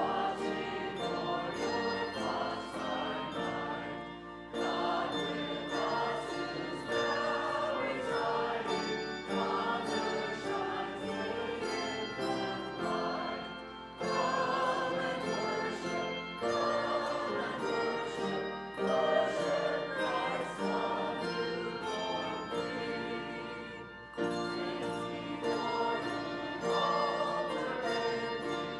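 A choir singing with instrumental accompaniment and a steady beat, pausing briefly between phrases about every ten seconds.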